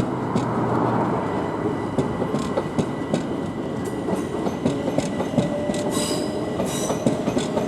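Southern Class 377 electric multiple unit departing, its wheels clicking over the rail joints under a steady running noise and a thin steady whine. A brief high squeal comes from the wheels about six seconds in.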